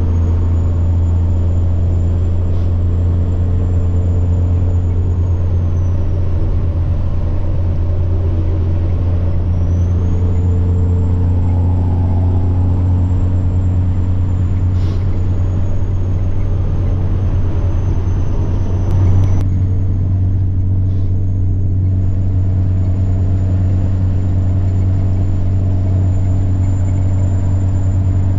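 Semi truck's diesel engine running under way with a steady low drone, and a high turbo whine that rises, holds and falls away several times. About two-thirds of the way through there is a brief bump in level and the upper hiss drops away for a few seconds.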